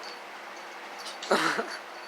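A cat gives one short meow about a second and a half in, over a faint steady hiss.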